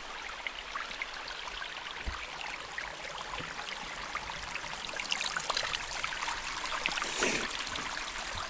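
Mountain stream water running and trickling: a steady rush full of small splashes, with a brief louder burst about seven seconds in.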